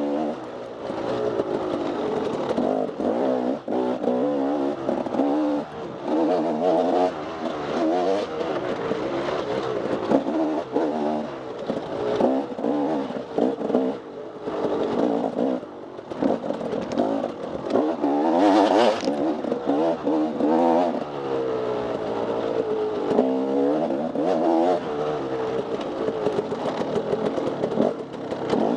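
Off-road racing motorcycle engine revving hard and falling back again and again as the throttle is worked through the trail, with a brief rushing burst of noise about two-thirds of the way through.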